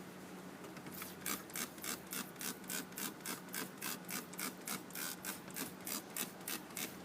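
Quick, even scrubbing strokes, about four a second, starting about a second in: a brush or rag being worked back and forth over the grass debris caked on a push mower engine.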